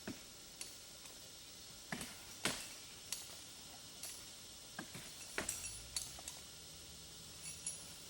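A scatter of light, irregular clicks and clinks, some of them sharp, with a faint low steady hum coming in about halfway through.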